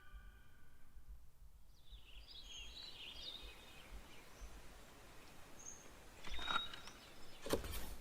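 Faint bird-like chirps about two to three and a half seconds in, over low background noise, then two soft knocks near the end.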